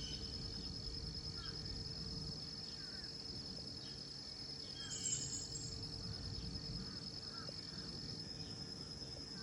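Insects trilling steadily in a high, fast-pulsing chorus, with short bird chirps scattered through it about once a second.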